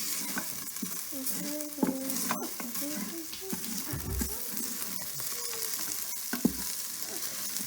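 Onions, ginger-garlic paste and ground spices sizzling as they fry in ghee in a pan, with a utensil stirring and scraping through the mixture, giving a few sharp clicks and knocks against the pan.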